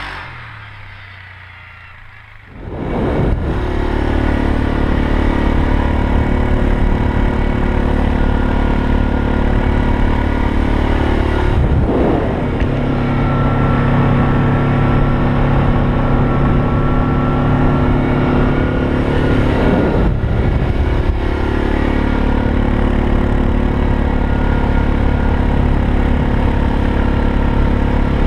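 Yamaha Grizzly 700 ATV engine running while riding, its pitch dipping and climbing again with the throttle three times. The first couple of seconds are much quieter before the engine comes in.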